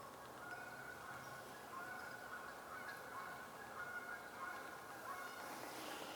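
Faint bird calls: a run of short, level, nasal honking notes that repeat and overlap throughout. A brief rush of noise comes near the end.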